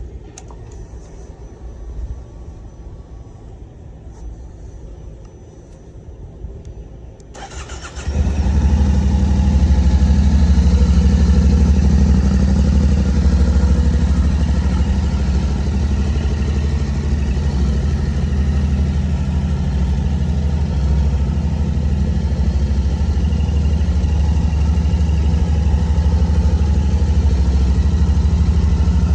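2025 Yamaha Ténéré 700's 689 cc parallel-twin engine cranked on the electric starter about seven seconds in, catching within a second and then idling steadily.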